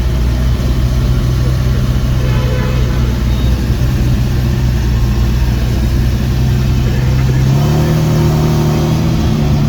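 Ferrari 512TR's flat-twelve engine idling steadily, its engine speed stepping up about seven and a half seconds in and again near the end.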